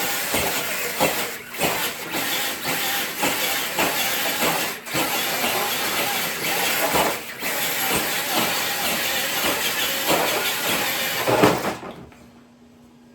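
RC truck dragging a weighted sled over the ground: a loud, rough scraping hiss from the sled and tyres with scattered knocks. It cuts off suddenly near the end.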